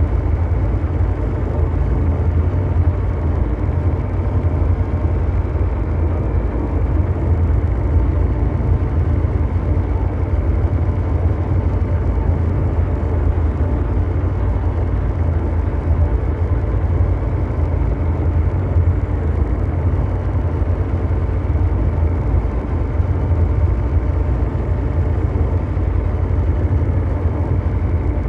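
Ambient mechanical drone noise: a deep, steady engine-like hum under a dull brown-noise hiss, unchanging throughout.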